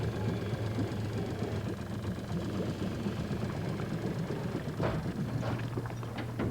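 An engine running steadily with a low, even hum, with a few short knocks near the end.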